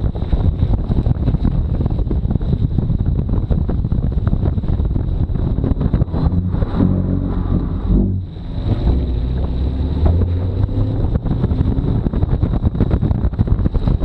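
Chevrolet Camaro ZL1 1LE's supercharged 6.2-litre V8 driven hard around a wet autocross course, its pitch rising and falling with the throttle over a steady hiss of tyre spray and wind buffeting the microphone. The engine climbs between about six and eight seconds in, drops briefly, then pulls again.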